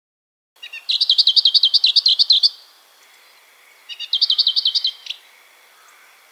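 A songbird singing two rapid trills of quickly repeated high notes, the first about a second in and a shorter one about four seconds in.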